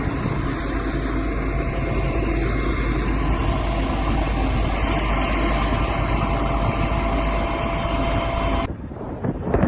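Steady engine and road noise of vehicle traffic, with a low hum and a faint steady whine; it cuts off abruptly near the end, giving way to a choppier, gusty noise.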